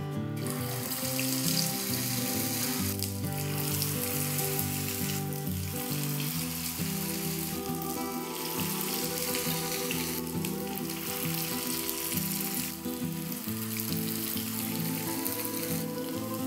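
Balls of chicken pakkoda batter sizzling as they are dropped into hot coconut oil in a frying pan, over background music.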